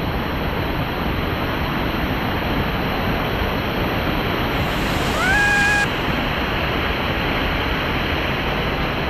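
Steady rushing of water from small waterfalls and cascading pools. A brief high tone sounds once about halfway through.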